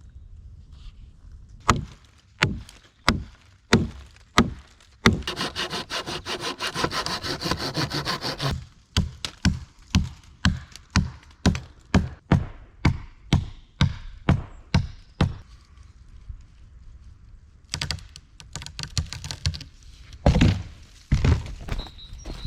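Wood being cut by hand. Blows land about one and a half times a second, broken by a spell of fast sawing strokes. A few heavier thuds come near the end.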